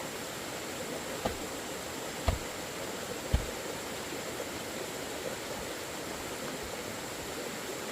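Steady rushing background noise, with three dull knocks about a second apart in the first half, the last one the loudest.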